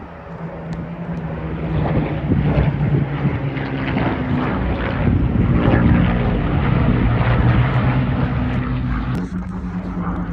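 Propeller-driven aircraft flying past, its engine drone building over the first couple of seconds and then staying loud and steady.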